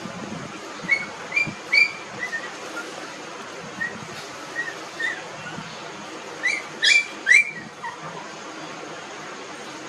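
Newborn puppies about 19 days old whining in short, high-pitched squeaks: two clusters of three loud squeaks, about a second in and again near seven seconds, with fainter single whimpers between, over a steady hiss.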